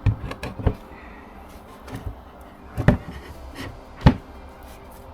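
A handful of sharp knocks and bumps, a cluster right at the start and single louder ones about three and four seconds in.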